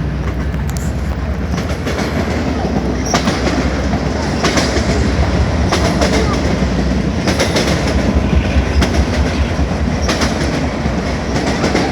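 Freight train passing close by: a loud, steady rumble with wheels clacking over rail joints every second or so.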